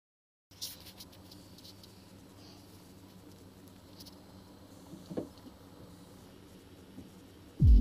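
Faint room noise with small scattered clicks and a light knock about five seconds in, then electronic music with heavy bass cuts in right at the end.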